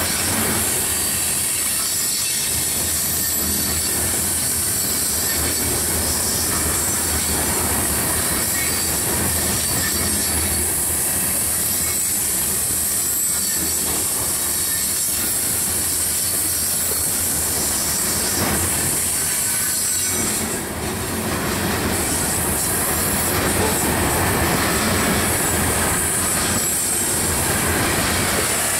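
Coal train's tub-bottomed coal gondolas rolling steadily past on a curve: a continuous rumble of steel wheels on rail with a constant high squeal from the wheels binding against the curved rail.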